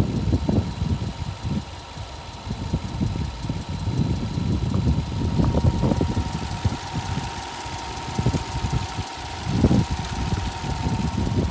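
Subaru Forester's EJ20 2.0-litre flat-four engine running at idle.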